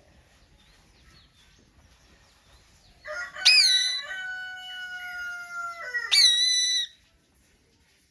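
A pet green parrot gives two sharp, loud squawks about three seconds apart, while a rooster crows in one long, held call between them that drops away at the end.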